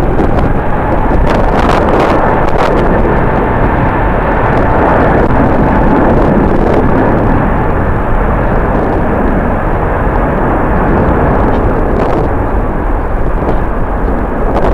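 Jet airliner engines running loud and steady, with a faint whine held on one note, mixed with strong wind buffeting the microphone.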